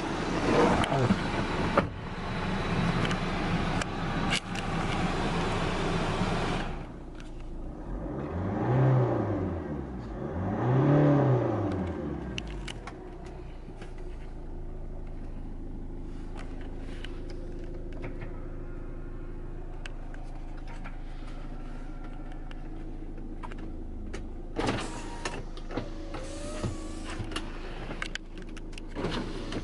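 Daewoo Winstorm SUV engine revved twice, each time rising and falling back, then idling steadily. Before and after the revs there is louder rushing noise with scattered clicks.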